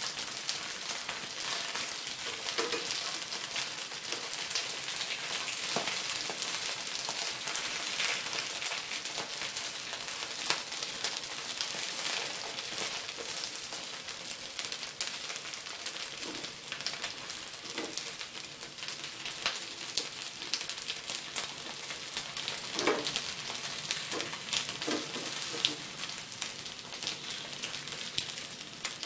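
Chive cakes frying in oil in a nonstick pan: a steady crackling sizzle. A few short knocks come in the second half as metal tongs turn the pieces.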